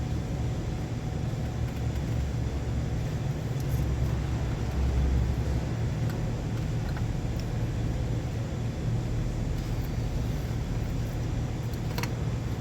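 A steady low motor rumble, like an engine running, with a few faint light clicks, one near the end.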